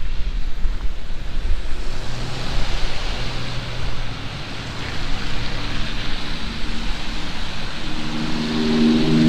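Heavy rain falling steadily, with wind rumbling on the microphone at first. Near the end a motor vehicle's engine approaches and grows louder.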